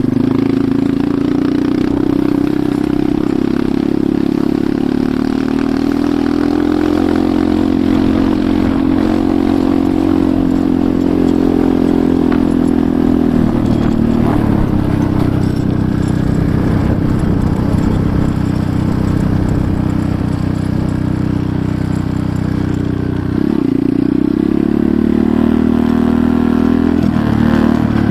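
Enduro motorcycle engine running under way, steady for long stretches, with its pitch dropping sharply about halfway through and shifting again near the end as the throttle or gear changes.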